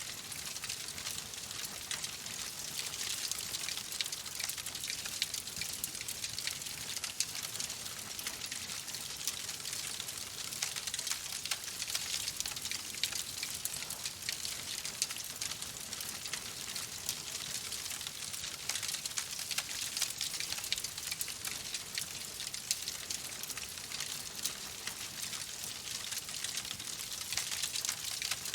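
Wood fire in a fireplace crackling steadily, a dense run of small snaps and pops over a soft hiss.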